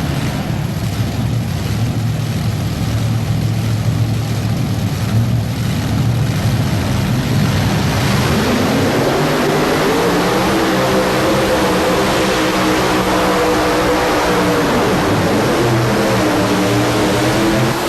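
Supercharged multi-engine modified pulling tractor running with a low rumble, then revving up about eight seconds in into a loud, wavering engine howl as it pulls down the track.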